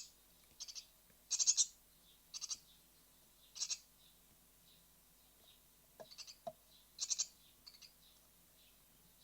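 Great tit nestlings giving raspy begging calls: short, high, pulsed calls repeating roughly once a second. There are two faint knocks about six seconds in.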